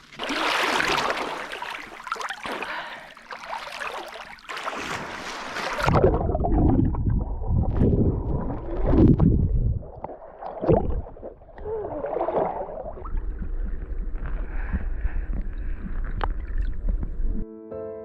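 Canoe moving on the water, with a loud splashing hiss for about the first six seconds. After that a heavy rumble of wind on the microphone runs under the water sounds.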